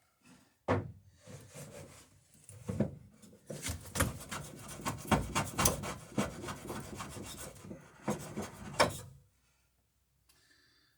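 Hand plane shaving wood in a run of scraping strokes, beveling the edge of a plank. The strokes start sharply just under a second in, come thick and fast through the middle, and stop about two seconds before the end.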